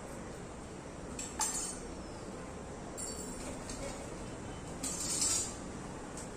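Cotton gamcha towel rubbing and flicking through long wet hair, in three short rustling swishes about a second in, three seconds in and near five seconds in.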